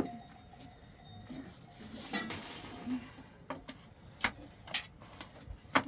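A few short, sharp knocks and clinks, about four of them in the second half spaced under a second apart, over a faint background.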